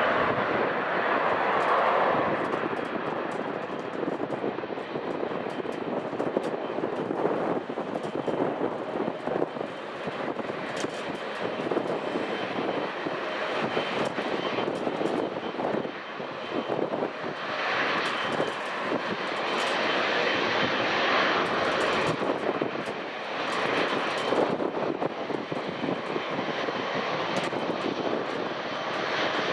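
Airliner engines running with a continuous rushing noise that swells about eighteen seconds in.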